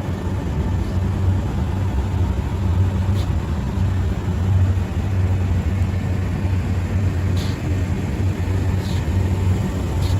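A steady low mechanical hum runs throughout, with a few faint light clicks.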